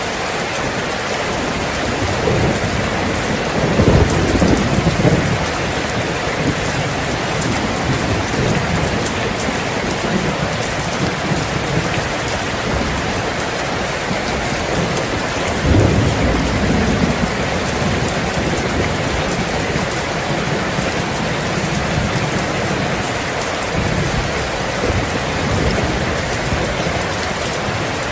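Steady heavy rain falling on a surface, with thunder rumbling twice, about four seconds in and again about sixteen seconds in.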